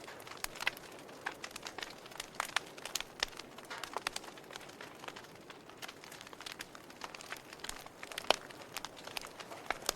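Wood fire crackling in a fireplace: irregular pops and snaps over a low steady hiss, with one louder pop about eight seconds in.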